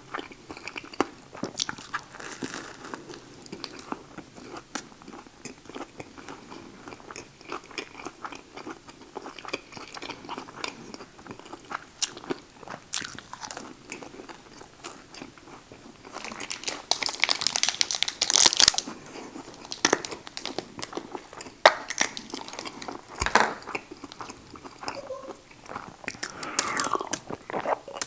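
Close-miked biting and chewing of a Subway buffalo chicken sandwich: crunching and many small mouth clicks, louder for a few seconds about two-thirds of the way through.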